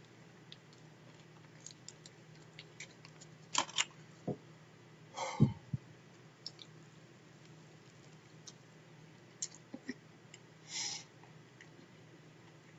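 Sparse eating and handling noises over a faint steady hum: a few sharp clicks and two short rustling bursts, one about five seconds in and one near the end.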